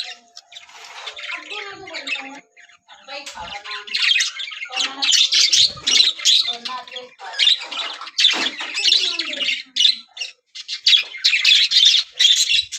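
A flock of budgerigars chattering and squawking in a dense run of short, high calls, with a brief lull about three seconds in.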